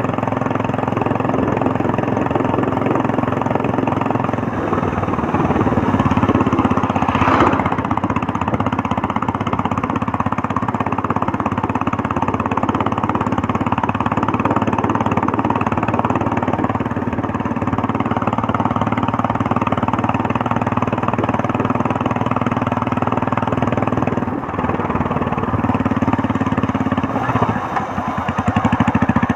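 Royal Enfield Meteor 350's single-cylinder engine running steadily on the move, with a brief rush of noise about seven seconds in and the exhaust dropping to a slow, pulsing beat near the end.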